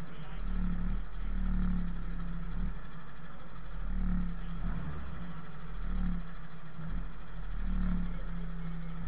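Classic Austin Mini Cooper S's four-cylinder A-series engine idling, heard from inside the car. Its low, steady hum swells briefly every second or two.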